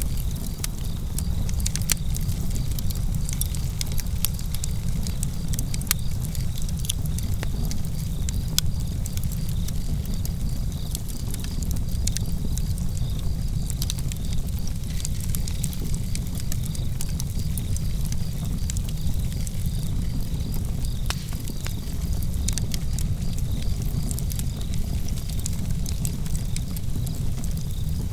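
Outdoor campfire crackling and popping with irregular sharp snaps over a low steady rumble, with crickets chirping faintly.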